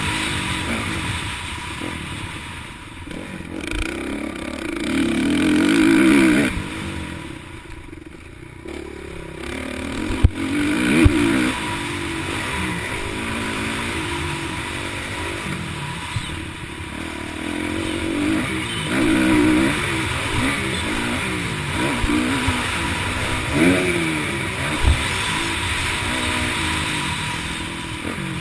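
Several motocross bikes racing, their engines revving up and falling back again and again as they pass and overlap. Two sharp knocks stand out about ten and eleven seconds in.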